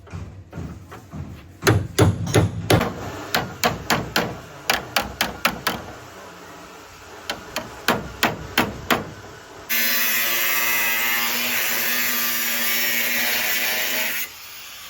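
Hammer strikes on car body sheet metal during dent repair, in quick runs of blows for the first nine seconds or so. Then a power tool runs steadily for about four and a half seconds, louder than the hammering, and stops shortly before the end.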